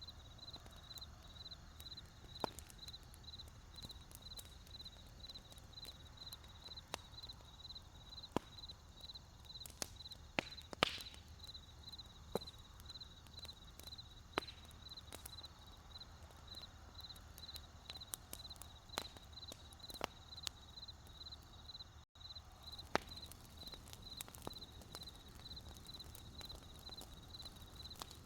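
Wood campfire crackling with scattered sharp pops, the loudest a hissing pop about eleven seconds in, over crickets chirping in a steady, evenly pulsed high-pitched trill.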